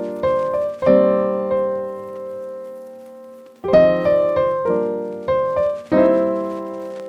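Background piano music: struck chords that ring and fade, with one long held chord near the middle.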